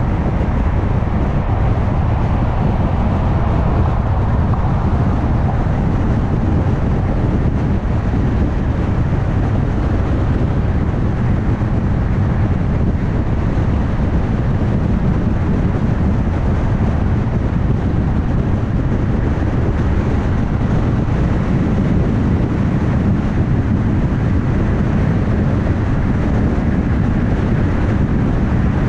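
Steady road noise of a car driving at highway speed: tyre roar and engine drone, with some wind.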